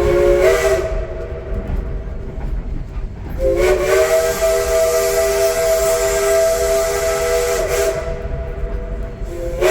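Steam locomotive's chime whistle: a short blast, then a long blast of about six seconds, its three-note chord sliding up to pitch at each start over a steady steam hiss. Another blast begins right at the end.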